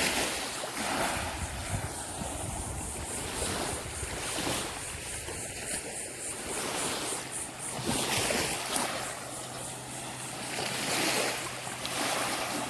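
Small surf washing onto a sandy beach in swells every few seconds, with some wind on the microphone. A faint low hum comes in about halfway through.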